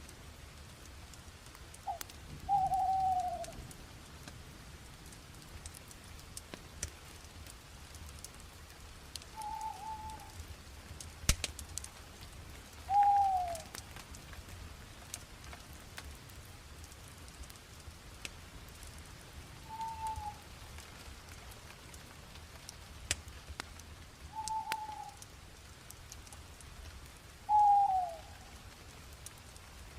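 A bird calling repeatedly, short falling whistled notes every few seconds, six in all. Under it a fire crackles with scattered sharp pops, one stronger pop a little past the middle.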